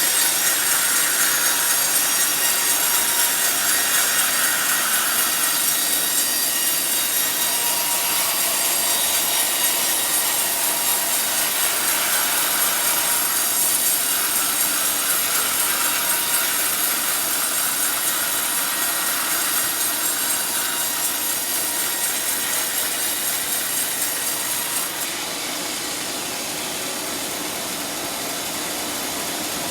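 Sawmill band saw cutting lengthwise through a teak log, a steady loud hiss of the blade in the wood. Near the end the cutting sound drops off and the saw runs on more quietly.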